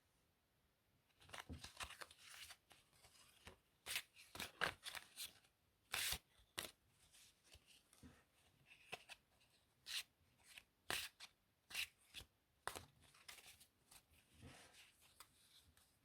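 Playing cards being handled close to the microphone: irregular crisp flicks, snaps and rustles, starting about a second in.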